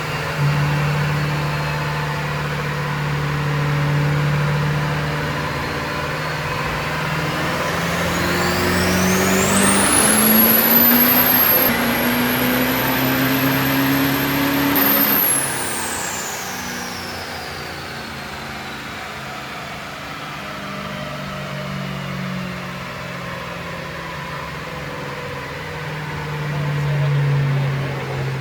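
Diesel truck engine running steadily, then pulling hard from about 8 seconds in, its revs climbing slowly under load with a very high turbocharger whine held for several seconds. About 15 seconds in it lets off and the whine falls away as the engine settles back.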